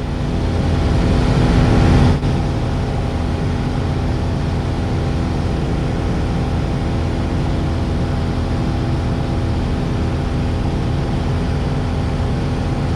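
Piper Warrior II's Lycoming four-cylinder engine and propeller droning steadily, heard from inside the cabin in level flight. The drone swells over the first couple of seconds, then holds steady.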